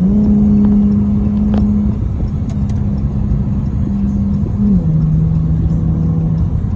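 Turbocharged Dodge Charger SRT engine heard from inside the cabin under road rumble. Its revs step up sharply at the start and hold a steady note, then step down to a lower steady note about four and a half seconds in.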